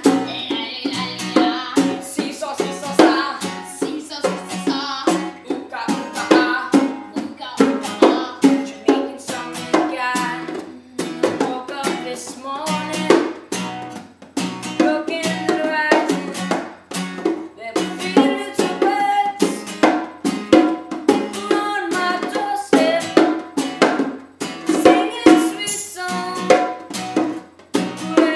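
Ukulele strummed in a steady rhythm under a singing voice.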